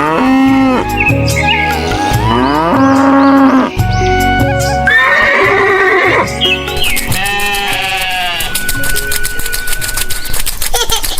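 Background music with farm animal calls laid over it, several bending calls one after another. About two-thirds of the way in, a fast, even clicking joins the music.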